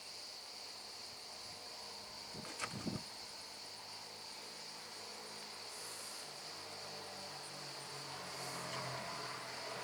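Steady high-pitched trill of crickets, with a couple of soft knocks near three seconds in.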